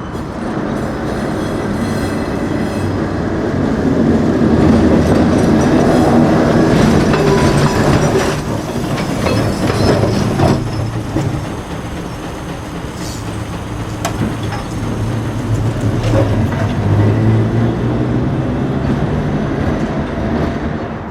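A New Orleans streetcar running on street rails, its wheels rumbling and clacking over the track, with some faint wheel squeal. The rumble swells over the first few seconds, is loudest until about ten seconds in, then eases and rises again briefly.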